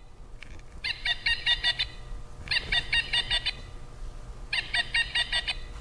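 Pileated woodpecker calling: three quick series of loud, evenly repeated notes, each about a second long, with short pauses between them.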